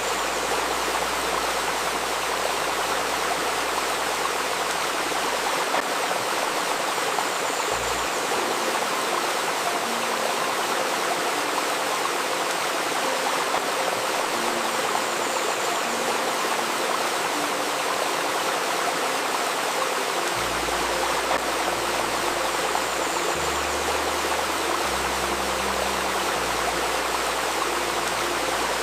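A river babbling steadily, with faint low held tones underneath that shift in pitch every second or two.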